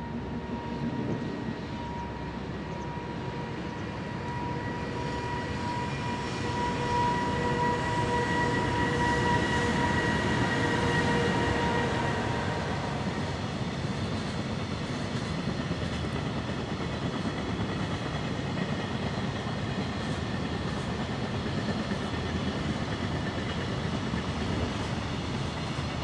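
JR Freight EH500 electric locomotive passing with a freight train on a bridge: a steady electric whine from its traction motors swells to its loudest about ten seconds in and fades by about thirteen seconds. The rumble of the container wagons rolling across the bridge goes on throughout.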